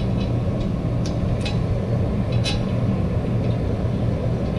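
An engine running steadily with a low drone, with a few faint metallic clinks.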